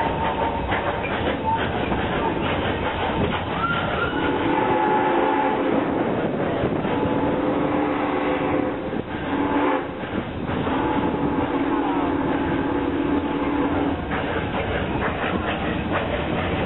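Train cars rolling along the track with a steady rattle. From about four seconds in, a low locomotive whistle sounds in several long blasts, the last one the longest.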